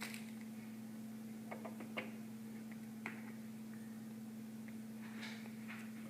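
Faint scattered clicks and taps of small plastic penguin game pieces being handled and set down, over a steady low hum.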